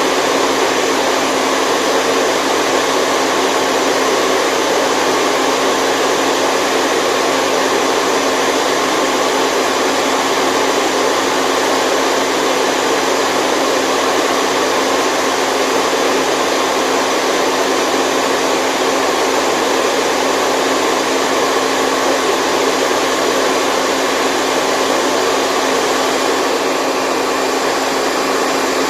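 Steady, unbroken white noise played as a baby sleep sound: an even rushing hiss with little bass that does not change.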